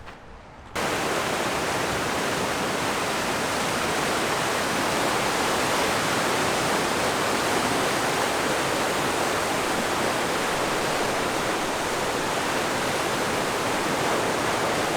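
Loud, steady rush of river water close to the microphone, starting abruptly under a second in.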